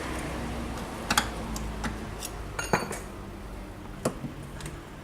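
Metal hand tools and engine parts clinking and clanking: a string of sharp, uneven metallic clicks and knocks over a steady low workshop hum, as a pulley is worked off the engine.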